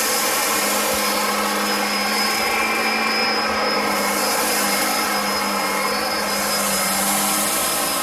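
Bissell upright vacuum cleaner running steadily while it picks up spilled dirt and kitty litter: a constant motor hum with a thin high whine over a rush of airflow.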